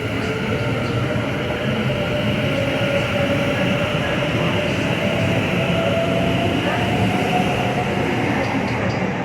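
Pair of Class 730 electric multiple units running along the platform: a steady rumble with a motor whine that rises slowly in pitch.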